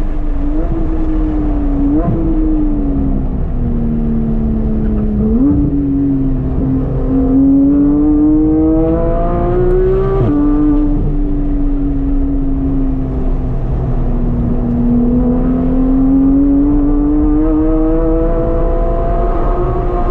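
Porsche GT3's naturally aspirated flat-six, fitted with an aftermarket exhaust with the catalytic converters kept, heard from inside the car on track. The engine note falls with two quick upward blips about 2 and 5 seconds in, as on downshifts under braking, then climbs steadily under acceleration. It drops abruptly about 10 seconds in, sags for a few seconds, and climbs steadily again near the end.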